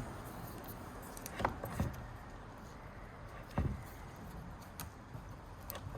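A few light knocks and clicks from the iMac's internal parts being handled and pulled at, three of them standing out, over a steady low hiss.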